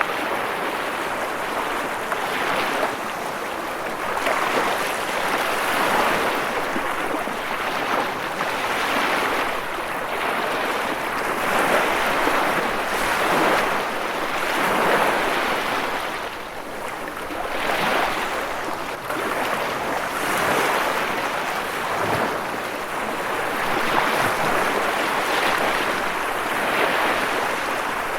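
Ocean waves washing onto the shore, a continuous surf hiss that swells and eases every few seconds.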